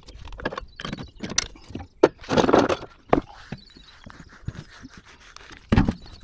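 Metal tools and parts clinking and knocking as they are handled, with a louder half-second rattle about two seconds in and another short clatter near the end.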